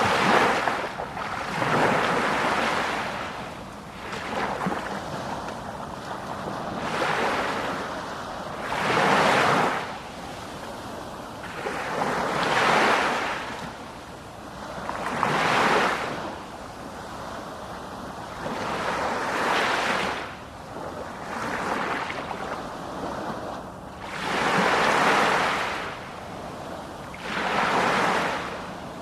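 Sea waves breaking on the shore, a rushing wash of surf that swells and fades again roughly every three seconds.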